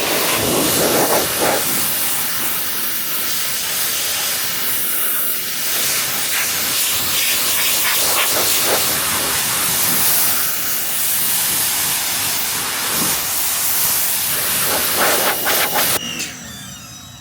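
Pressure washer spraying a high-pressure jet of water onto a car in a loud, steady hiss that cuts off about a second before the end.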